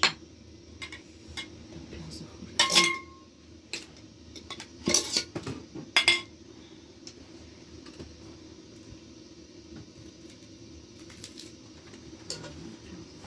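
Metal dishes and utensils being handled: a few sharp clinks, one near three seconds in ringing briefly, two more around five and six seconds in, then only faint light ticks.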